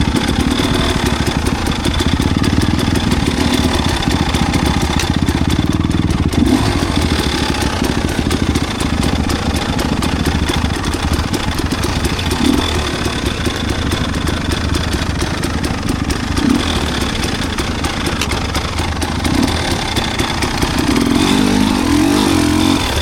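Enduro dirt-bike engine running steadily, getting louder near the end.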